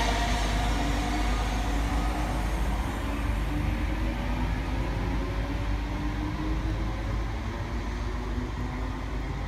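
Electric multiple-unit train running through the station: a steady rumble with a faint traction-motor whine that slowly rises in pitch as the train gathers speed.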